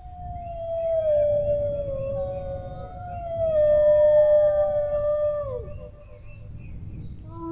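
Dogs howling together in long, overlapping howls that slide slowly down in pitch and trail off with a downward drop about five and a half seconds in. A fresh howl rises just at the end.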